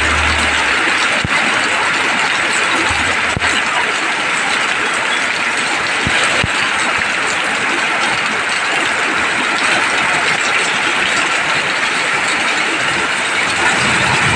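Heavy rain falling: a steady, loud, even hiss with a few faint knocks.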